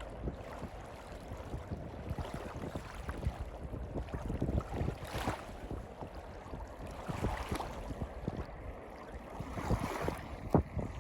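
Gusty wind buffeting the microphone at the seashore: uneven low rumbling that comes and goes in gusts.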